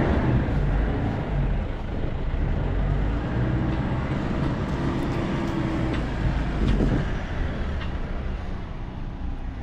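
Diesel engine of heavy farm machinery running steadily with a deep rumble. A faint whine rises and falls twice around the middle.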